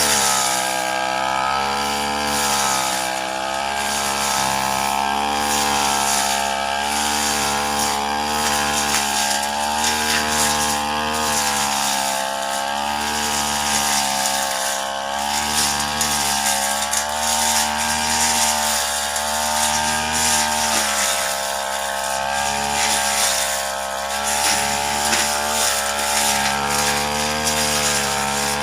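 Brush cutter engine running at high speed, its pitch wavering up and down as the load changes while the freshly sharpened blade cuts grass.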